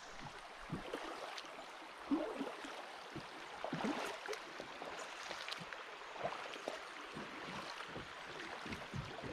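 Kayak and paddles splashing and knocking at irregular moments over the steady wash of shallow river water, as the boat is worked upstream through a rocky riffle. The sharpest knock comes about two seconds in, with a cluster of splashes around four seconds.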